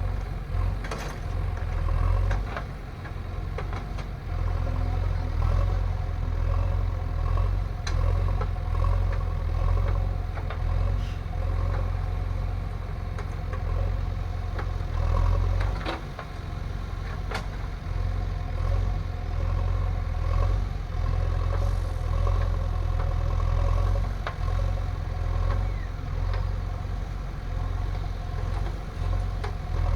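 Heavy diesel engine running steadily, with its level rising and falling and a few sharp clanks.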